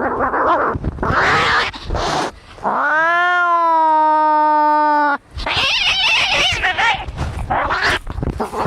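Angry cats fighting: harsh noisy outbursts of hissing and snarling, then one long, drawn-out yowl of about two and a half seconds starting about three seconds in, followed by more harsh hissing.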